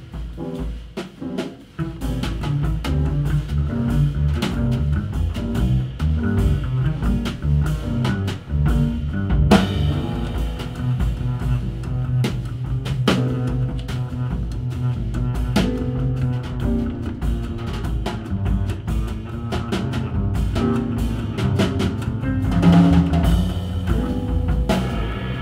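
Jazz trio playing live, with double bass and drum kit prominent. Bass notes run under many quick drum and cymbal strikes; the music thins briefly in the first couple of seconds, then picks up again.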